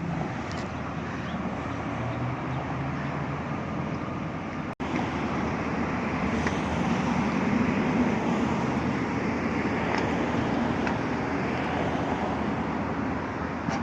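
Sports car engine running steadily, with road noise around it, briefly dropping out about five seconds in.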